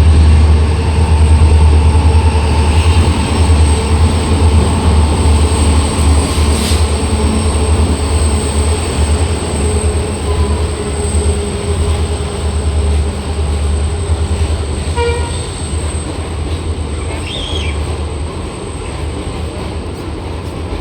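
Twin WDP4D diesel-electric locomotives running with a heavy, pulsing low engine rumble, loudest at first and fading steadily as the train draws away.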